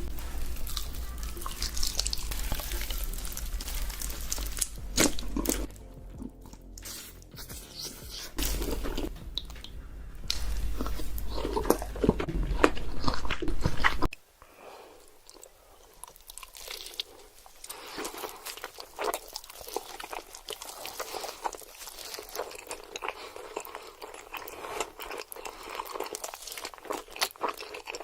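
Close-miked eating: big bites of crunchy food being crunched and chewed, with a cut about halfway to a quieter clip of more chewing, where a low hum in the background stops.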